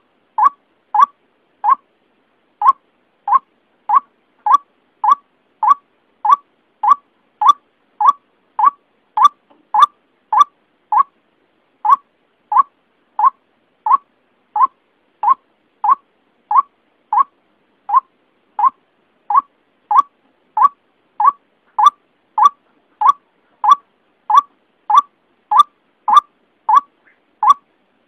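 White-breasted waterhen (ruak-ruak) call used as a trapping lure: a short note centred near 1 kHz, repeated evenly about one and a half times a second, with a brief pause about two seconds in.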